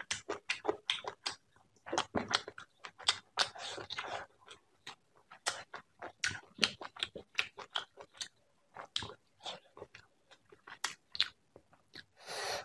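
Close-miked mouth sounds of eating prawn curry and rice: chewing and biting in many short, irregular wet clicks and smacks, with a longer, louder burst of noise near the end.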